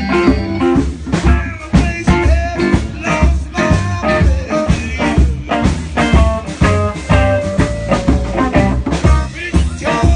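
Live blues band playing an instrumental stretch of a song, with drum kit beats and guitar.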